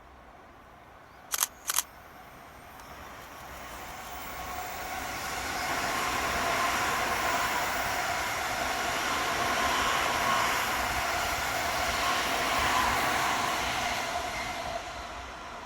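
Two sharp clicks, then an E351 series Super Azusa limited-express electric train passing: its running noise builds over a few seconds, holds loud for about seven seconds, and fades toward the end.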